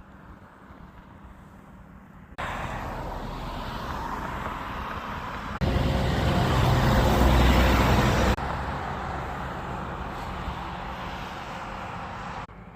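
Motor vehicle running, heard as a string of short clips that cut abruptly from one to the next, with the loudest, deepest rumble for a few seconds in the middle.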